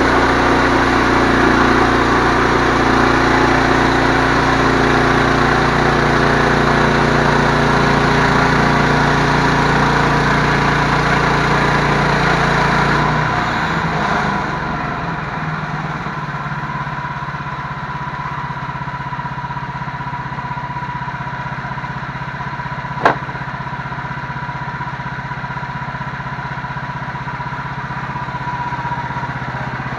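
An engine running steadily; about 13 seconds in its deep low part drops away and it carries on quieter. One sharp click near the end.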